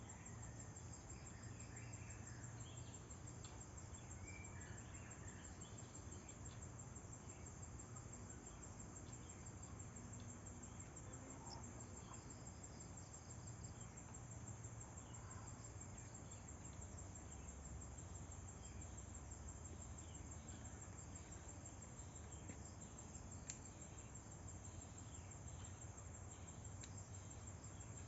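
Faint, steady insect chorus: a continuous high-pitched trill, with a few scattered faint chirps and a low hum beneath.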